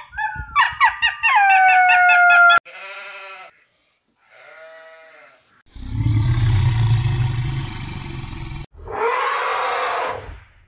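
A string of separate animal calls, one after another. First comes a quick run of short calls that slide down in pitch, then two faint calls. A loud, rough, low call lasts about three seconds, and one more call comes near the end.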